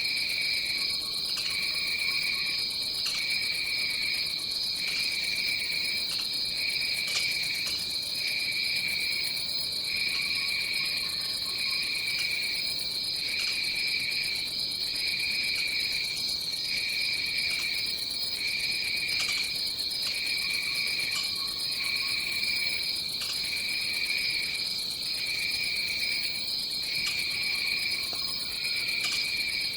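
Tropical jungle insect chorus: a steady high trill with a second, lower insect call pulsing on and off about once a second. A few faint short low calls come through now and then.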